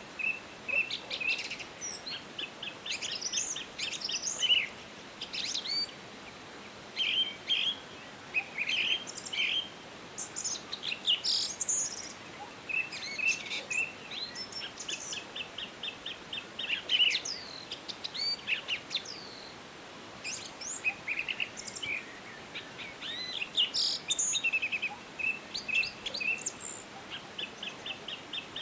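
A chorus of several songbirds singing and calling over one another, with quick chirps and rapid, evenly spaced trills, over a faint steady background hiss.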